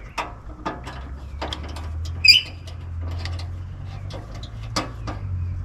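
Scattered light clicks and knocks of tools and hardware while an aluminum UTV door is being bolted on, with one sharp squeak about two seconds in, over a steady low hum.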